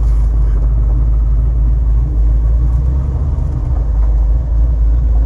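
A 6.2-litre GM LS V8 crate engine with an Elgin stage 3 cam running with a steady low rumble; it runs rough and still needs tuning to smooth it out.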